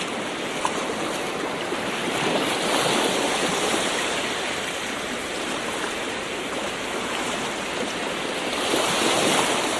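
Gentle ocean waves washing in: a continuous rush of water that swells about three seconds in and again near the end, with one brief click under a second in.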